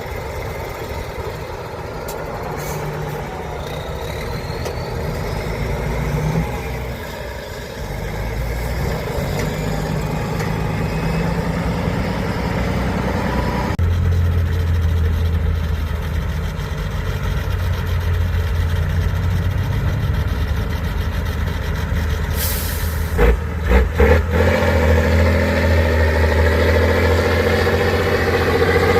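Heavy truck diesel engines running and working under load through an off-road trial section, with a sudden change to a deeper, steadier engine note about halfway through. Near the end comes a short burst of air hiss, followed by a few knocks.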